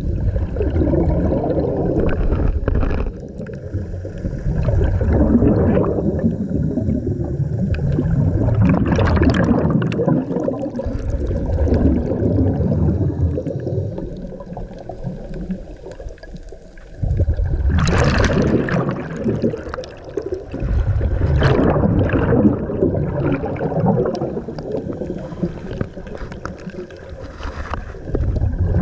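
Scuba diver breathing through a regulator underwater, with exhaust bubbles gurgling past the microphone in surges every few seconds.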